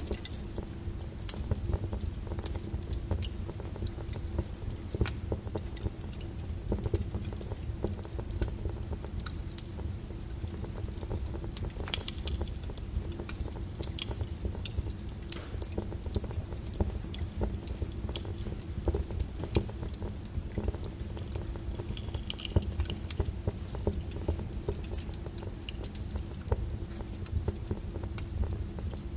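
Wood fire in a fireplace crackling, with irregular sharp pops and snaps over a low rumble of the burning, a few pops standing out louder.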